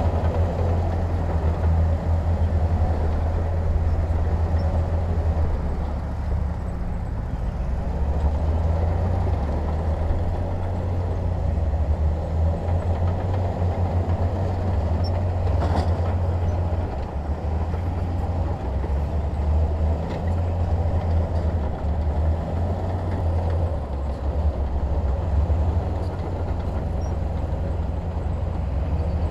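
Heavy diesel earth-moving machinery running steadily, a deep engine rumble, with one short sharp knock about sixteen seconds in.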